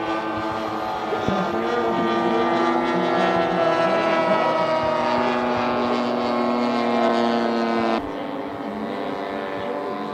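Engines of a large radio-control scale B-17 model in flight, a steady droning of several engines that grows louder through the middle and drops off abruptly about eight seconds in.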